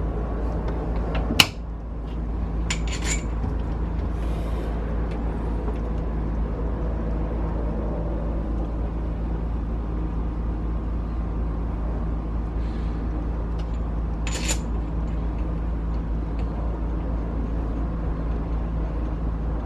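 A steady low mechanical hum. A sharp knock sounds about a second and a half in, a few clicks follow around three seconds, and another click comes near the end of the middle stretch.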